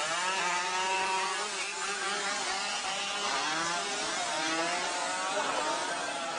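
Small motorcycle engines running and revving, their pitch rising and falling over and over.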